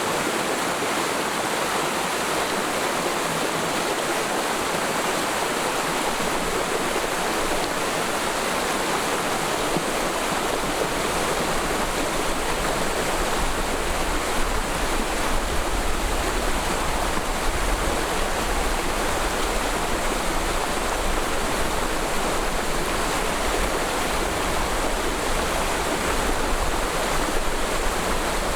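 Mountain stream in a forest valley flowing over rocks: a steady, dense rush of running water, with a deeper low rumble coming in from about the middle on.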